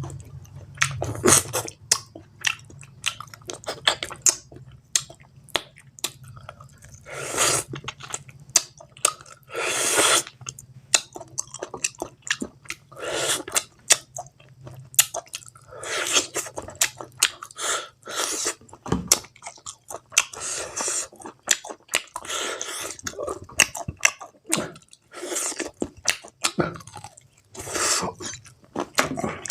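Close-up eating sounds of pork curry and rice: irregular wet chewing, smacking and slurping, with sharp clicks and crunches.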